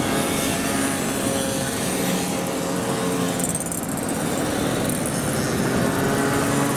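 Several small 50cc moped engines running together as they ride past, their tones overlapping at a steady level with no single loud pass standing out.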